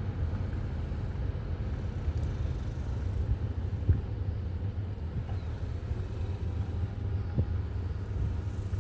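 Steady low rumble of a car's engine and tyres heard from inside the cabin while driving slowly, with one brief knock about four seconds in.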